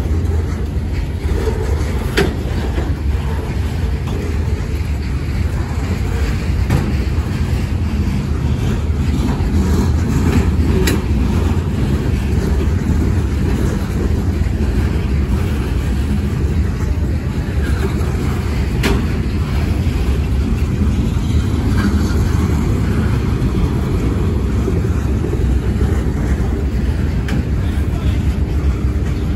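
Freight train boxcars rolling past at close range: a steady low rumble of steel wheels on the rails, with a few sharp clicks along the way.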